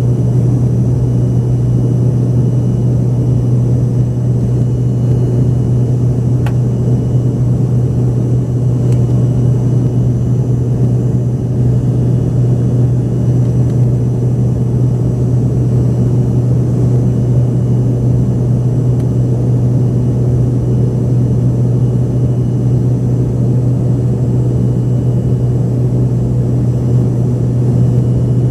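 Steady, unchanging cabin drone inside an Embraer ERJ-145XR regional jet, from its rear-mounted Rolls-Royce AE3007 turbofans and the airflow, with a strong low hum.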